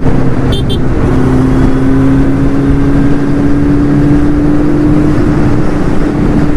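Kawasaki Z900 inline-four engine running through an aftermarket exhaust at a steady cruise, its note slowly rising in pitch, with wind and road rush around it.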